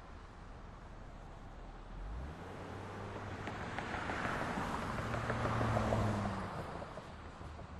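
A motor vehicle passing on a city street. Its low engine hum and tyre noise build over a few seconds, are loudest about six seconds in, then fade away, over a steady background of traffic.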